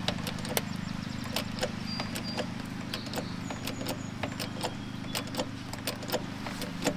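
An engine running steadily at a low hum, with many irregular light clicks and taps of metal on top.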